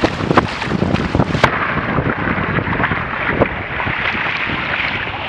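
Strong wind buffeting the microphone over water rushing past the hulls of a Grabner Happy Cat Hurricane catamaran sailing fast in a fresh breeze, with sharp slaps of spray and chop against the hulls now and then.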